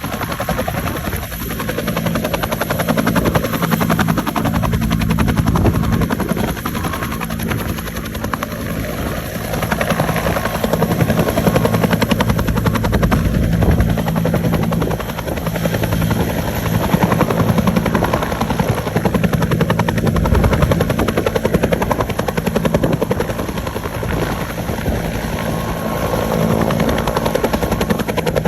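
Helicopter running close by: a steady, rapid rotor chop over the engine's low hum, swelling and easing slowly as it moves.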